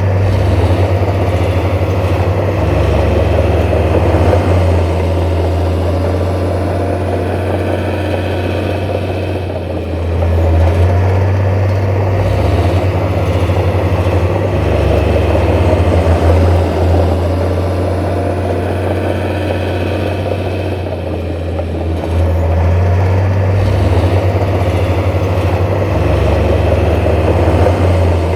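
Heavy diesel construction machinery engine running steadily, its loudness swelling and easing every several seconds as the load changes.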